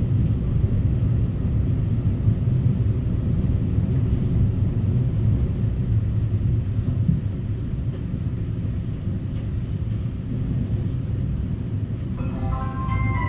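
Inside an EMU900 electric multiple unit running between stations, a steady low rumble of wheels and motors. About a second before the end, a short electronic chime melody begins on the train's announcement system, leading into the arrival announcement for the next stop.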